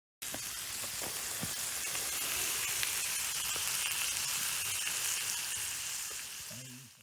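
Food sizzling in a frying pan: a steady frying hiss with small crackles and pops, cut off abruptly.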